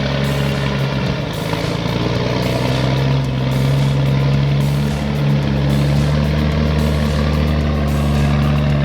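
Heavy truck's diesel engine running steadily under load as it climbs with a heavy payload, a continuous low drone.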